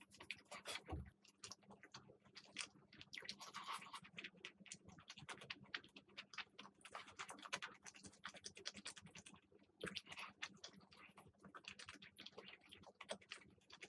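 Close-miked eating sounds: soft, irregular clicks and crackles of a mouth chewing food.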